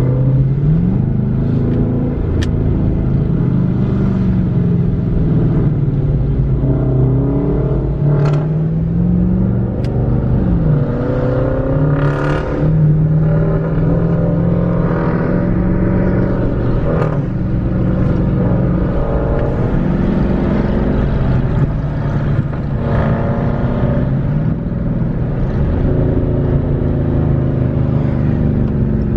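Car engines running at a car meet, their pitch rising and falling several times as they are revved.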